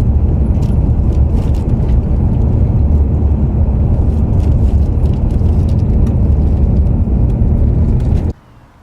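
Steady low rumble of a coach on the move, road and engine noise that cuts off suddenly near the end.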